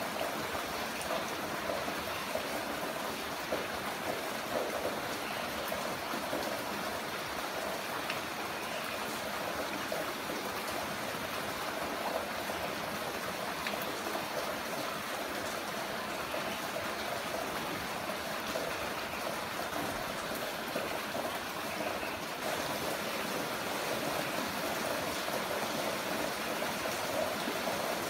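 Heavy rain falling in a steady, even rush of water, a little louder in the last few seconds.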